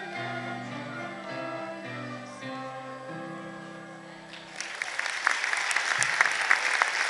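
A student flute choir plays the last held notes of a piece over a lower accompaniment. Audience applause breaks out about four and a half seconds in and carries on.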